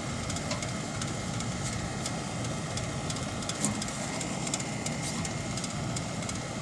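Steady mechanical hum of running machinery, with a few faint metallic clicks of hand tools as a pulley puller is tightened onto a blower pulley seized to its motor shaft.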